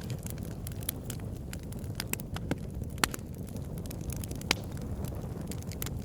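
Campfire burning, wood crackling with frequent sharp pops, two louder ones about three and four and a half seconds in, over a steady low rumble.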